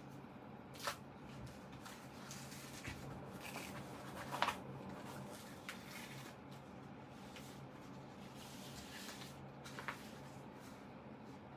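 Hands handling and pulling at a synthetic-leather Bible cover as it is taken apart, soft rustling of the material with three short sharp snaps, the loudest about four and a half seconds in. A steady low hum runs underneath.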